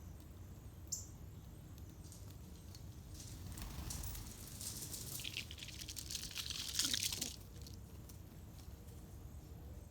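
A sharp click about a second in, then several seconds of rustling and crackling that swells, peaks and stops suddenly.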